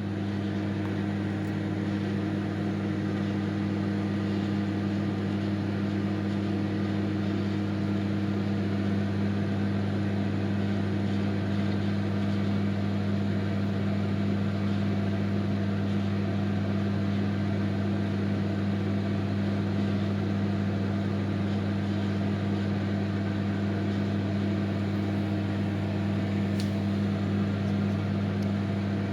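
Microwave oven running while it bakes a cake: a steady, even electrical hum with no change throughout.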